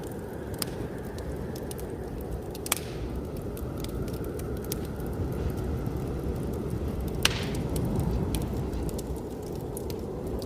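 Wood fire crackling, with a few sharp pops, over a steady low rumble of blizzard wind.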